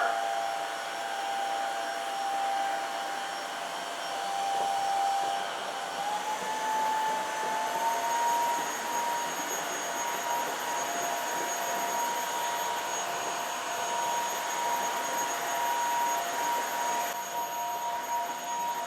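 Dreame H11 Max cordless wet-dry floor cleaner running steadily in water absorption mode: a hiss of suction with a high motor whine that steps up in pitch about six seconds in and then holds.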